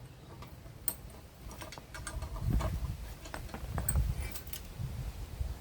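Scattered light metallic clicks and clinks of tools and parts being handled, with a few dull knocks around the middle.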